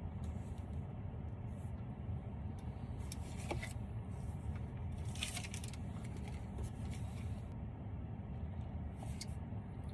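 Short slurps of boba milk tea drawn through a wide straw, about three in all, over a steady low rumble like a car cabin with the engine running.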